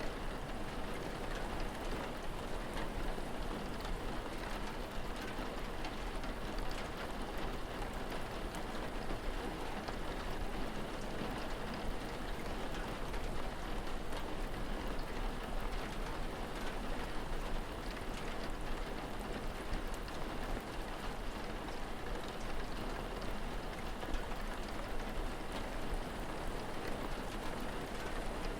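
Steady rain falling, with individual drops ticking here and there over an even hiss and a constant low rumble underneath.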